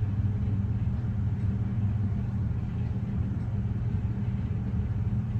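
A vehicle engine idling, a steady low hum that holds even throughout.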